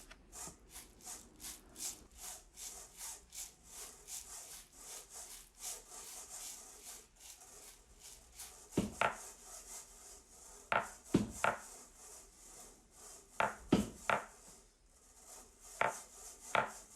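Rhythmic scraping strokes, about three or four a second, with a few sharp knocks in the second half.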